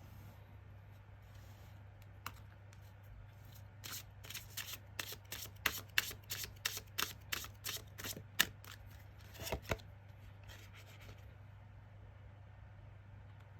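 Tarot cards being shuffled by hand: a run of crisp card slaps, about two a second, from about four seconds in to about ten, over a steady low hum.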